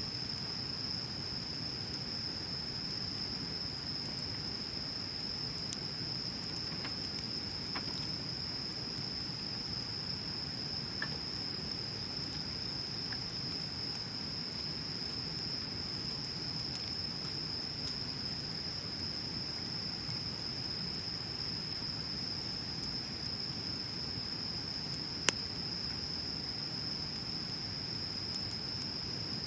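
Bonfire burning with scattered soft crackles and one sharper pop near the end, under a constant high-pitched steady tone and a low even rush.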